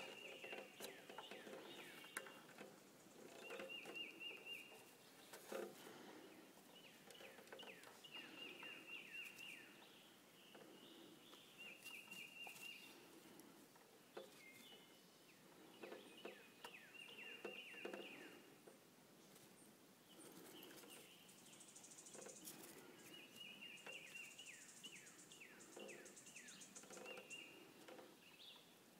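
Faint outdoor sound: a songbird repeats a short song over and over, a run of quick falling notes ending in a trill, every few seconds. An insect buzzes for a few seconds about three quarters of the way through, with scattered soft taps and rustles.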